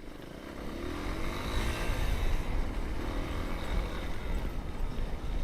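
Motorcycle engine pulling away and accelerating, its pitch rising twice, under heavy wind rumble on the helmet-mounted microphone.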